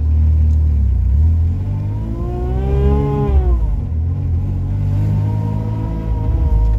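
Supercharged Daewoo Matiz's three-cylinder engine driving, a low rumble throughout. The engine note and the belt-driven supercharger's whine rise in pitch as the revs climb, then fall back about three seconds in, before settling to a steady tone. The supercharger is spinning without boost, as its outlet is not yet piped to the throttle body.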